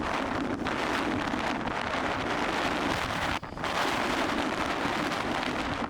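Strong wind rushing and buffeting the microphone: a loud, steady noisy roar that drops out briefly about three and a half seconds in.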